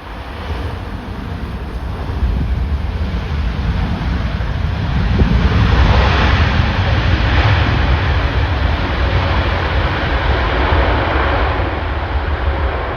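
Strong gusting wind buffeting the microphone, with a jet airliner's engine noise swelling up to a peak about six seconds in and then easing off.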